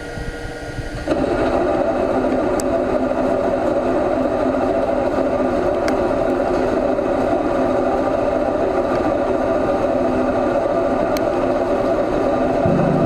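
CNC lathe running steadily during crankshaft machining, a level mechanical whir with several held tones. It gets louder about a second in and stays even after that.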